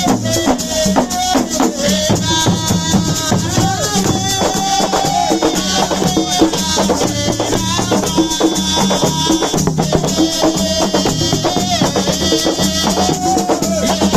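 Assiko percussion music: dense, fast rattle and drum strokes under a wavering melody line.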